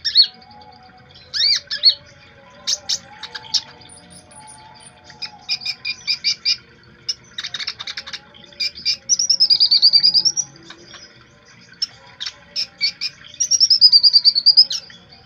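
A konin songbird calling busily: sharp, short high chirps and quick runs of notes, with two longer rapid phrases that dip and then rise in pitch, about nine and thirteen seconds in.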